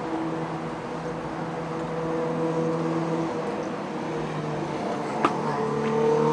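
The 20 HP engine of an Alkota 5355J hot pressure washer running steadily, with a single sharp click about five seconds in and the engine getting a little louder near the end.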